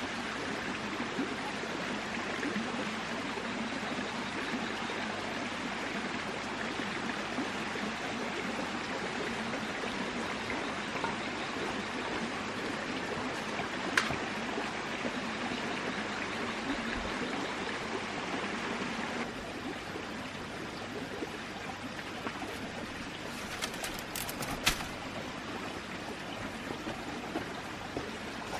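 Steady rush of flowing water, like a forest stream, dropping slightly in level about two-thirds of the way through. A single sharp click about halfway and a few quick clicks near the end.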